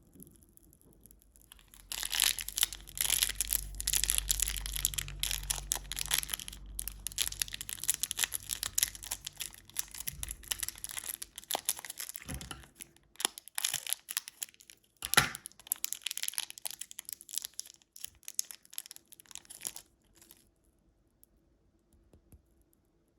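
Candy wrapper being torn open and crinkled by hand: dense crackling with sharp snaps. It starts about two seconds in and stops a few seconds before the end.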